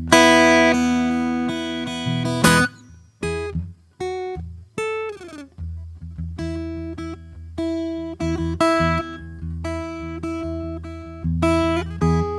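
Acoustic guitar played slowly and softly. A chord is struck and left to ring, then a note glides down in pitch about five seconds in, followed by a run of gently repeated plucked notes and chords.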